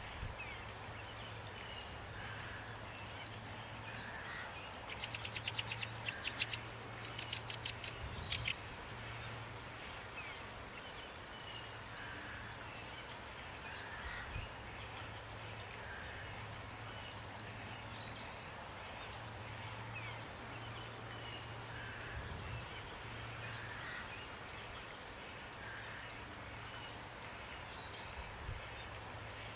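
Steady rain falling, with songbirds chirping again and again throughout and one bird giving a fast trill of rapid notes from about five to eight seconds in.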